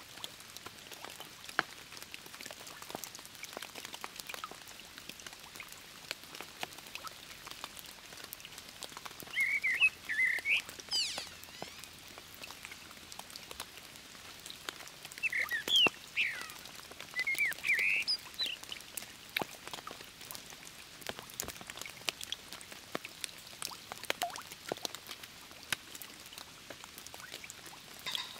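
A bird calls in two bursts of short, high chirps, about ten seconds in and again around sixteen to eighteen seconds in. Underneath, there is a light, irregular patter of ticks like dripping rain.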